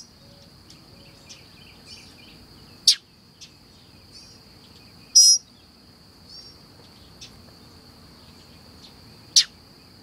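A steady high insect drone runs under short, high bird chirps, most faint, with three loud, sharp chirps close by about three, five and nine seconds in.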